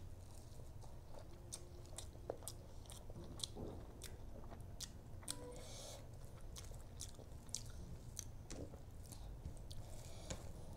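Close-miked chewing of a mouthful of rice and fish curry, with many sharp wet mouth clicks and smacks, over a low steady hum.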